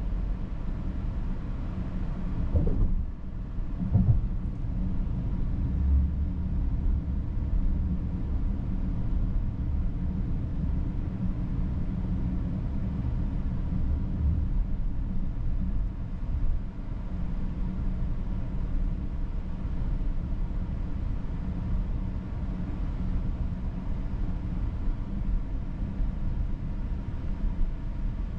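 A 2022 Volkswagen Atlas SUV driving, heard from inside the cabin as a steady low rumble of road and tyre noise with the engine under it. Two short thumps come about three and four seconds in.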